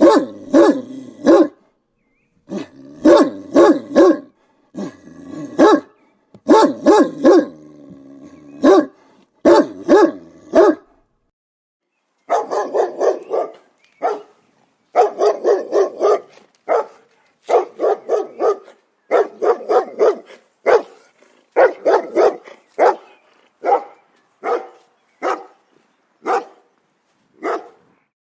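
Dog barking in quick clusters of three or four barks. After a short silence about 11 seconds in, a second run of higher-pitched barks comes more often.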